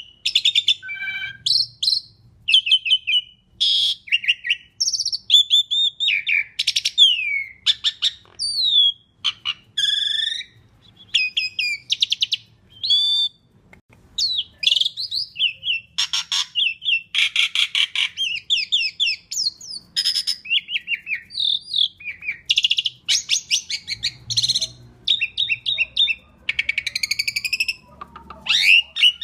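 Asian pied starling (jalak suren) singing a long, varied song: a rapid string of short whistles, chattering notes and harsh, buzzy phrases, some sliding up or down in pitch, with brief gaps between them.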